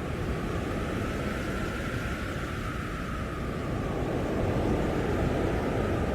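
Blizzard wind blowing in gusts, with a faint high howl that slowly sinks in pitch; the gusting swells a little about four seconds in.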